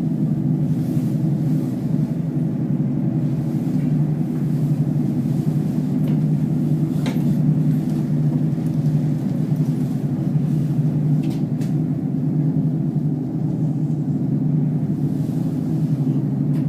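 Steady low rumble and hum of an aerial tramway cabin riding along its cables, heard from inside the cabin, with a few faint clicks.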